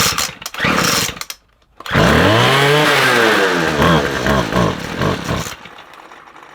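McCulloch 250C XL two-stroke strimmer engine being pull-started: two quick pulls of the starter cord, then the engine fires about two seconds in and runs for a few seconds with its revs rising and falling before dropping off sharply. It runs poorly, which the owner puts down to a partly blocked carburettor jet starving it of fuel.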